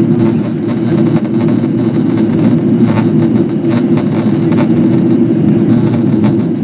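Steady cabin drone inside a Boeing 777-200ER descending on approach: engine and airflow noise, with a few faint clicks.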